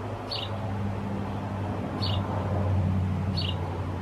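Pet birds giving short high chirps, three of them about a second and a half apart, over a steady low hum.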